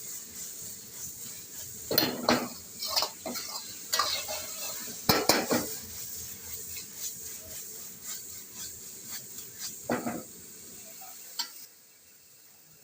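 Chicken 65 pieces sizzling in hot oil in a pan while a metal spoon stirs them, scraping and clanking against the pan several times. The sizzling and stirring stop about a second before the end.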